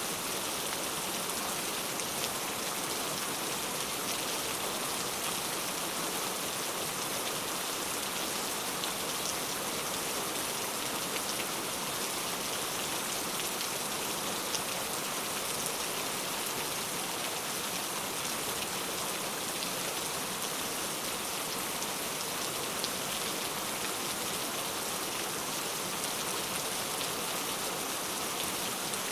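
Heavy rain falling steadily, a dense even hiss with fine patter of individual drops.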